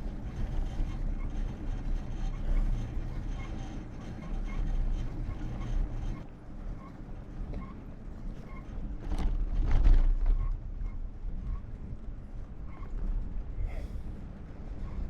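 Wind rumbling on the microphone during a bicycle ride, swelling louder about two-thirds of the way through, with faint short high peeps recurring at intervals.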